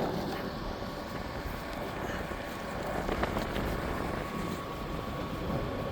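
Steady low rumble of a vehicle, with a faint steady tone above it.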